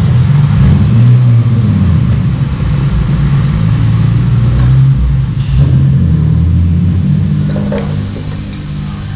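A car engine running, its revs rising and falling, getting quieter near the end.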